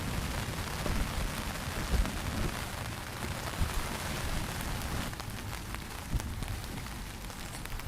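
Steady rain falling on a tarp overhead, a dense hiss of drops with frequent soft low thuds. From about five seconds in, separate sharper drop ticks stand out.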